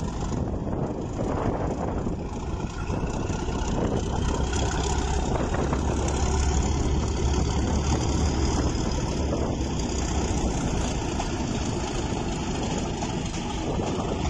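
Diesel train engine running with a deep, steady rumble that swells in the middle and eases off, with a faint rising whine above it.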